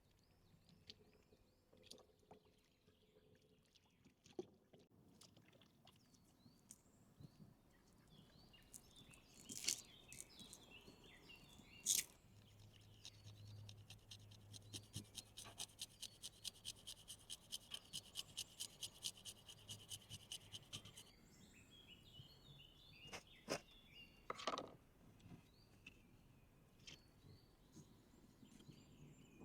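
A run of rhythmic scraping or rubbing strokes, about three and a half a second for some eight seconds in the middle, with a few sharp knocks before and after and faint birds chirping throughout.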